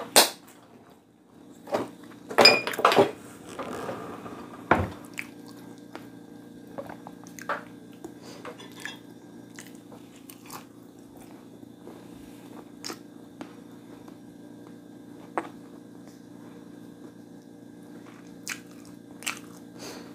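A person eating close to the microphone: a few loud, sharp bites in the first five seconds, then quieter chewing clicks spaced a second or more apart, over a steady low hum.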